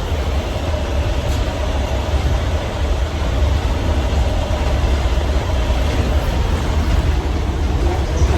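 City bus running: a steady, loud low rumble of engine and road noise with a faint steady hum above it.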